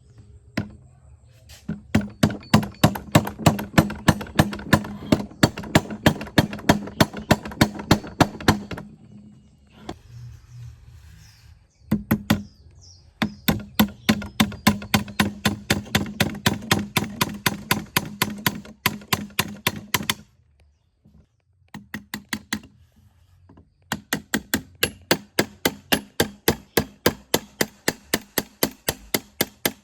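Rapid, evenly spaced knocking strikes, about four a second, in three runs of several seconds each with short pauses between, and a low hum under each run.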